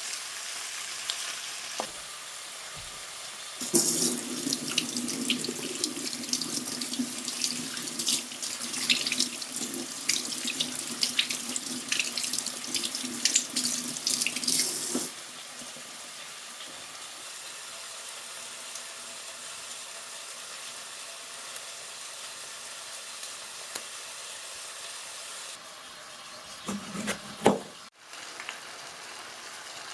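Kitchen tap running into the sink for about eleven seconds, then shut off abruptly. A short clatter follows near the end.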